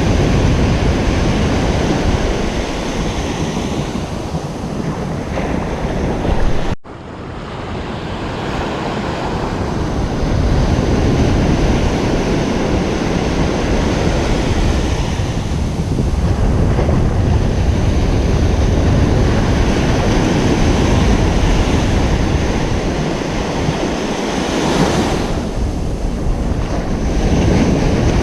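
Ocean surf washing continuously onto a beach, with wind rumbling on the microphone. About seven seconds in the sound cuts out for an instant, then swells back.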